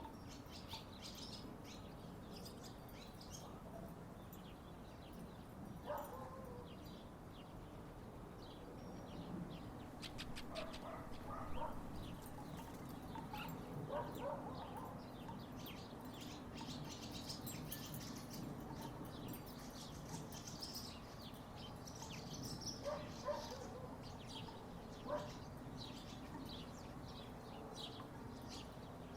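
Birds chirping and twittering, with a few scattered hollow knocks from wooden tiki wind chimes stirring in the breeze, over a steady low background hum.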